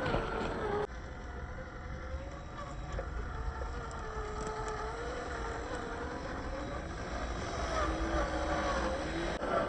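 Scale RC crawler truck's small electric motor and geared drivetrain whining as it crawls, the pitch wandering up and down with the throttle.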